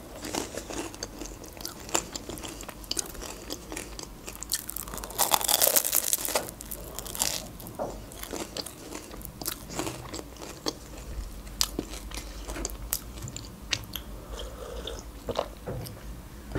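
Close-miked biting and chewing of a crisp pastry pie: a louder crunching bite about five seconds in, then crackly chewing with small wet mouth clicks.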